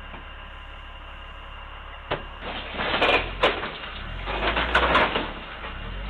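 A steady low hum, then from about two seconds in a backhoe breaking into a building: a sharp knock followed by repeated crashing, banging and scraping over a low engine rumble.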